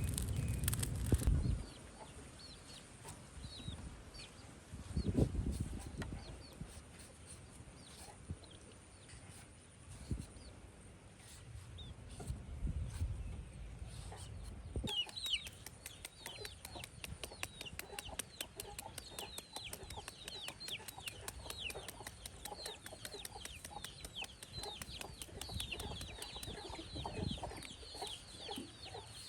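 Chickens calling: from about halfway through, a dense run of short, high chirps, each falling in pitch, several a second. Before that, a low rumble stops after about a second and a half, and there is a knock about five seconds in.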